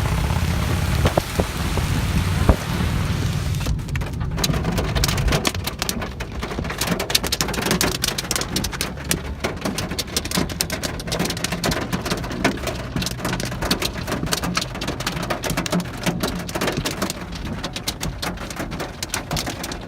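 Hail and rain striking surfaces in a dense, irregular clatter of small impacts that thickens about four seconds in, over a low rumble that fades out soon after.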